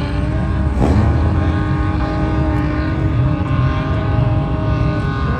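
A vehicle engine held at steady high revs, a sustained droning tone over a low rumble, shifting pitch near the end.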